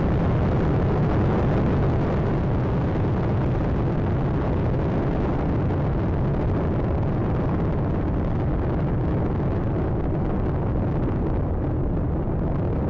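Space Shuttle Atlantis climbing after liftoff: the steady, loud noise of its two solid rocket boosters and three main engines, heaviest in the low rumble. The higher frequencies fade over the last few seconds.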